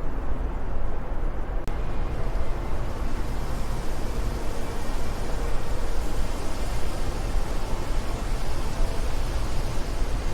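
Steady wind noise, a dense rush with a heavy low rumble. A brief click and dip comes about a second and a half in, after which the hiss is brighter.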